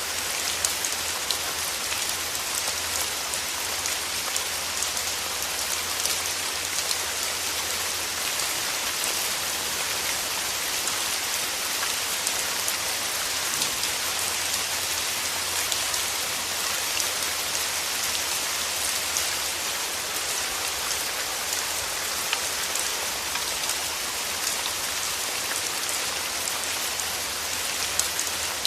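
Steady rain falling through forest trees, a continuous hiss with many small drop ticks and patters.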